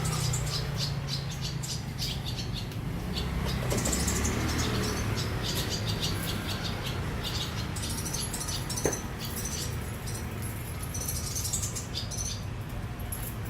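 Swiftlets twittering in repeated bursts of rapid, high chirps, over a steady low rumble. A single sharp click comes about nine seconds in.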